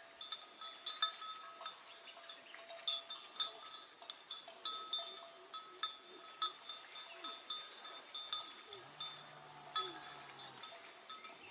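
A metal bell clinks over and over, leaving a steady ring. From about eight seconds in, a low, steady drone joins it.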